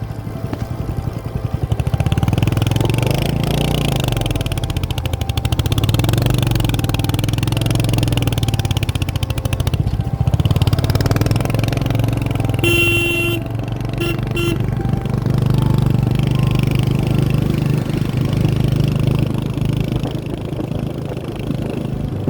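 Motorcycle engine running on the move, its pitch rising and falling as it revs up and eases off. A horn honks twice in quick succession a little past the middle.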